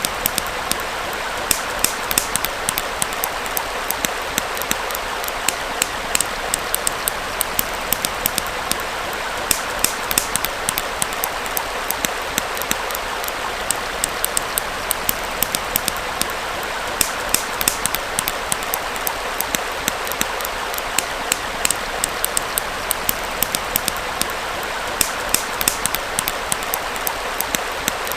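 A small stream flowing steadily, with a burning campfire crackling over it in frequent, irregular sharp pops.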